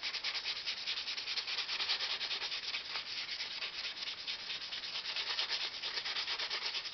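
Sandpaper rubbing on a fiberglass RC airplane cowl in quick, even back-and-forth strokes, smoothing a repaired area before priming.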